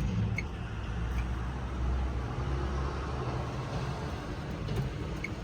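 A car running, a steady low rumble with a few faint ticks.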